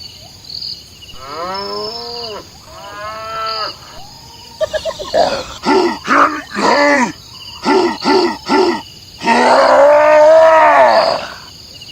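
A series of animal calls: two drawn-out calls, then a run of five short ones about half a second apart, then one long, loud call near the end.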